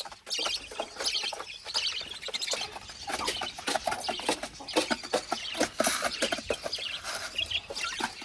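Chickens and their chicks clucking and cheeping while they eat, with many quick tapping clicks of beaks pecking at feed.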